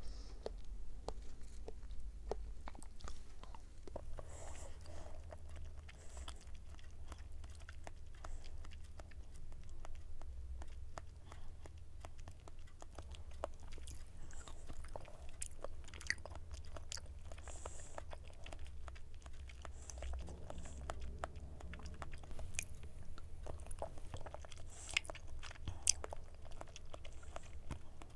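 A person biting and chewing peach konjac jelly close to the microphone: a steady run of small sharp clicks and smacks from the mouth.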